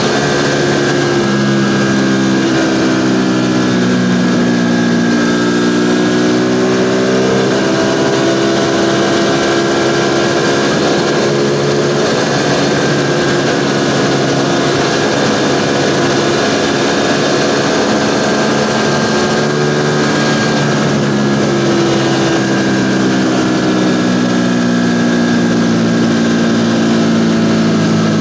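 Ducati Panigale V4's V4 engine running on the move, its note dropping and climbing again twice as the throttle and speed change.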